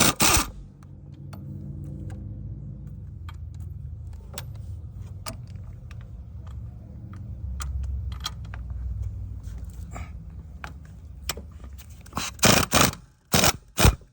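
3/8-inch air impact wrench hammering on engine bracket mount bolts in short loud bursts at the start and again several times near the end. Between the bursts there is a steady low machine hum and small metallic clicks.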